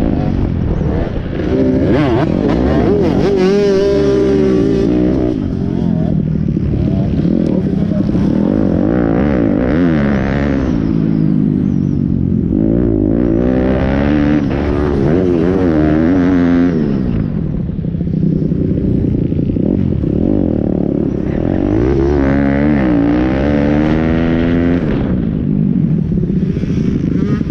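Pit bike engines revving hard and easing off over and over, the pitch climbing and dropping every few seconds as the bikes accelerate, shift and slow for turns.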